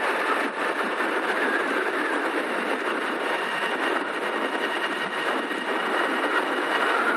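Steady wind and road noise from riding an Ariel Rider X-Class electric motorbike at speed, with a faint steady high whine.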